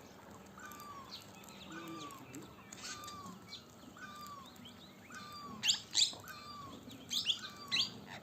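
Birds calling: a short, curved lower call repeats about once a second, while shrill, high-pitched green parrot calls come loudest in a cluster a little past halfway and again near the end.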